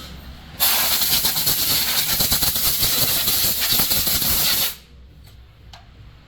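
Compressed air hissing in one loud, steady blast of about four seconds that starts and cuts off abruptly.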